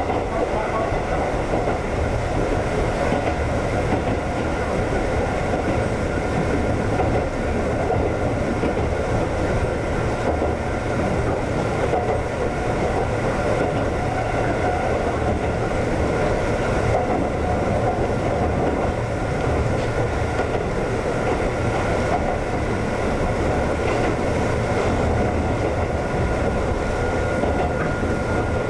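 Konan Railway 7000-series electric train (ex-Tokyu 7000 series) running along the line: a steady rumble of wheels on rail with a faint high whine.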